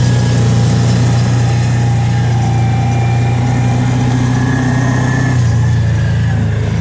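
Kawasaki Teryx side-by-side engine running steadily under way. The engine note settles slightly lower about five seconds in.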